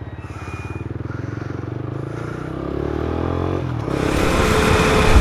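Motorcycle engine running with an even pulse, then revving up with a rising pitch about three seconds in. A loud rushing noise covers it near the end.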